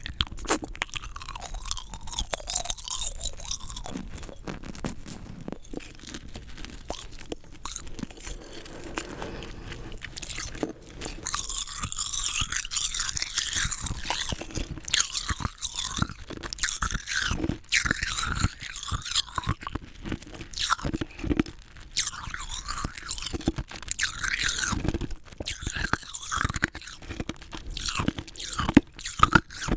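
Rock candy, crystallised sugar, being bitten and crunched between the teeth and chewed, in a string of sharp crunches. The crunching is densest and loudest for a few seconds in the middle.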